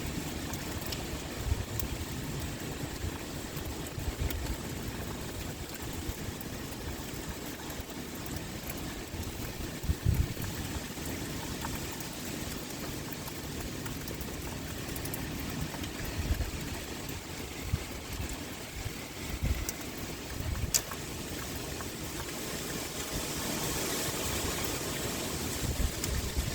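Steady rain with wind, making an even hiss, broken every few seconds by brief low rumbles.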